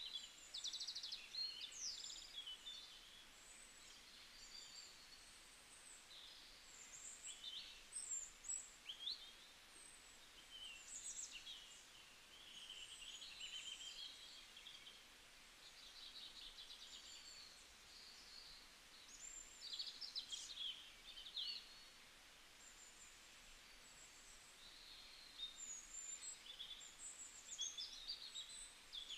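Faint birdsong: several small birds chirping and trilling in quick, short calls that keep overlapping.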